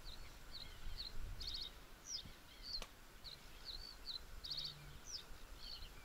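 Small birds calling faintly, a scatter of short high chirps and a few quick trills, with a single sharp click a little before the three-second mark.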